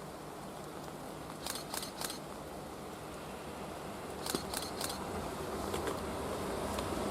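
An approaching train, its rumble growing steadily louder through the second half, over a steady hiss of rain. Two sets of three quick clicks sound about a second and a half in and again just past four seconds.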